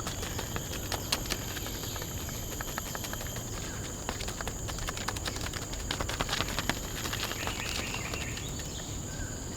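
Forest ambience: insects keep up a steady high-pitched drone, with scattered sharp clicks and crackles that come thickest between about four and seven seconds in.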